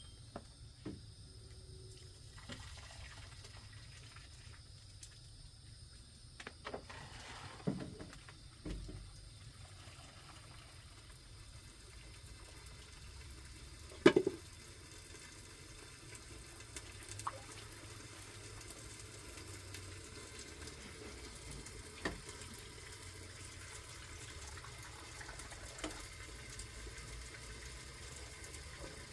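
Steady water sound with a few scattered knocks, the loudest about halfway through.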